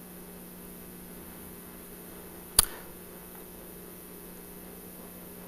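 A pause in a conversation: the recording's steady low hum and faint hiss, with a single sharp click about two and a half seconds in.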